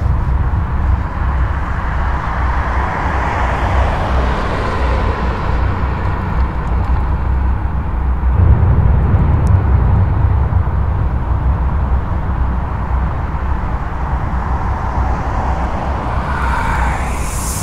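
Road traffic noise: a steady low rumble, with a passing car swelling up about three seconds in and another car's tyre noise rising sharply near the end as it goes by close.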